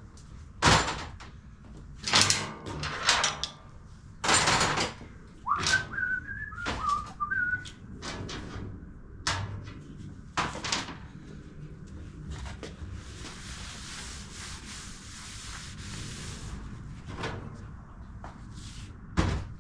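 Workbench handling noises: a series of sharp knocks and clunks. A short whistled phrase comes about six seconds in, and a steady hiss runs for a few seconds past the middle.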